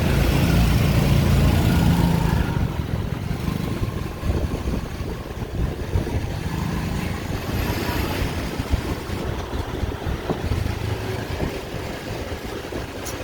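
City street traffic of motorbikes and cars. A loud engine passes close by for the first couple of seconds, then a steadier, quieter din of engines goes on.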